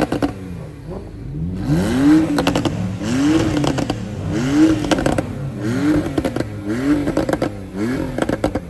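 A supercar engine revved in repeated blips, its pitch rising and falling about seven times, with a burst of crackles from the exhaust each time the revs drop.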